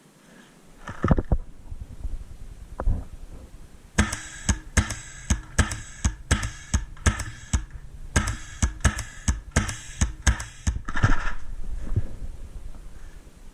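Paintball marker firing a steady string of shots, about three a second for some six seconds, with rustling movement just before and after.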